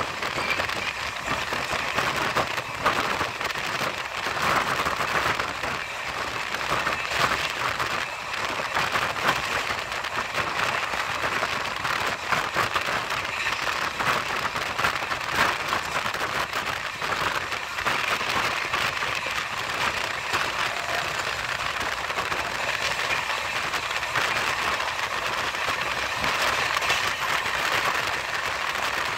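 Steady rushing and dense rattling of a moving train's wheels on the rails, heard from its open door.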